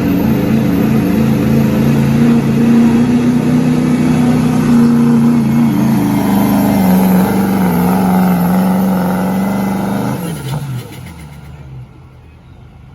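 Diesel pickup truck with a 2.6-inch smoothbore turbo running hard and steady under full throttle while pulling a sled. Its pitch dips slightly about two-thirds of the way through, then the engine falls away sharply near the end.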